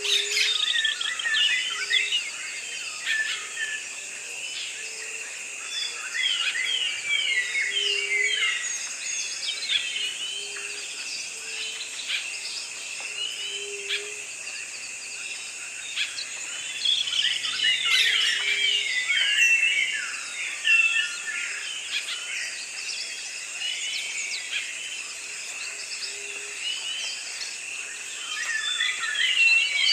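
Flock of cockatiels chirping and calling, many short chirps overlapping, busiest about a third and two-thirds of the way through. Under them runs a steady high-pitched drone.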